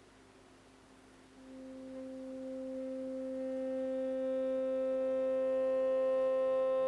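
A steady, pure, pitched tone fades in over a fainter low tone about a second and a half in. It swells steadily louder, and more overtones fill in above it as it grows.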